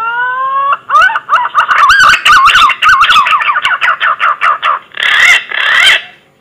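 Punai (green pigeon) song used as a hunting lure call: a long whistle gliding upward, then a quick run of wavering, warbling whistled notes, ending with two harsher notes near the end.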